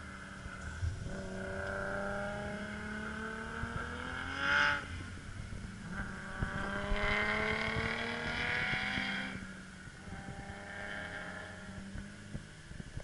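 A car on the circuit accelerating hard, its engine note climbing steadily for about four seconds. A short, loud burst comes at the shift, then the note climbs again for about three seconds before the engine eases off and quietens.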